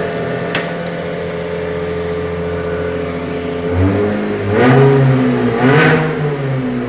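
Toyota engine fitted in a GAZelle van idling steadily, then revved up twice from about four seconds in, each time rising and falling back; it runs evenly without vibration.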